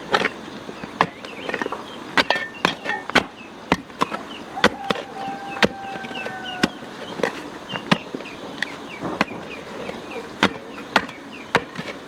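Irregular sharp knocks, about one or two a second, over many short high chirps. A steady pitched tone holds for about two seconds in the middle.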